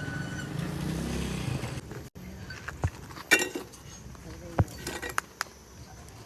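Steady factory machine hum for about two seconds, then, after a sudden cut, a few sharp metallic clinks and knocks of metal parts being handled.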